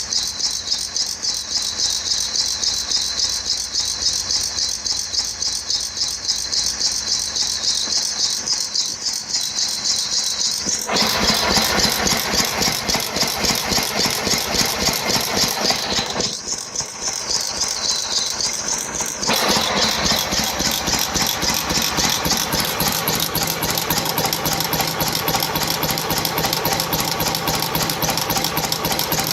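International Harvester 6 hp Type M single-cylinder hit-and-miss stationary engine running, with a steady, rapid, rhythmic clatter. The tone shifts about a third of the way in and again past the middle.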